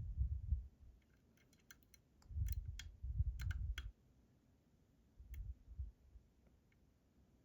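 Small sharp clicks of a lock pick working the pins of a Robur 2391 lock cylinder under light tension, a scattered run of them between about one and four seconds in and a couple more later. Low dull thumps of the lock and tools being handled come between the clicks.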